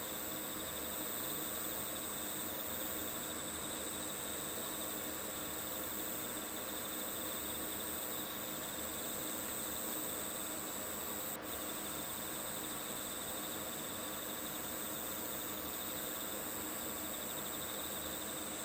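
Steady chorus of crickets chirring, with a single sharp click about eleven seconds in.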